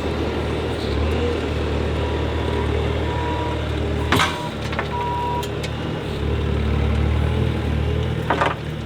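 Loader engine running steadily, with two loud knocks, about four seconds in and again near the end, as the heavy stump is handled in the bucket and truck bed.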